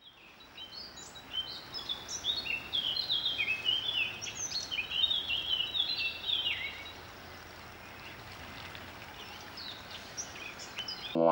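Several birds chirping and singing in quick, overlapping short falling notes over a steady background hiss of outdoor ambience. The birdsong dies away after about seven seconds, leaving only the hiss.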